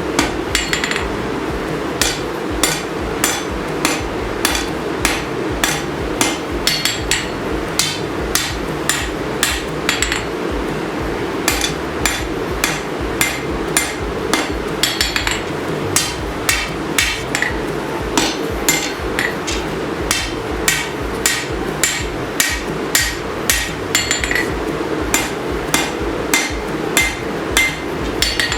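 Hand hammer striking hot steel on an anvil, forging out a sword blade: steady ringing blows about two a second, pausing briefly a couple of times, over a steady rushing noise.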